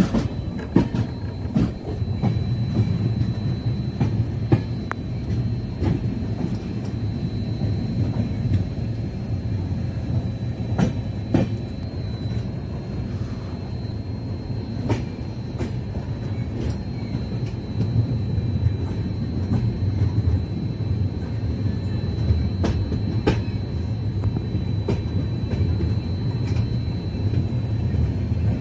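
Passenger train coach running along the track: a steady low rumble of wheels on rail, with scattered sharp clicks and knocks and a faint high steady tone.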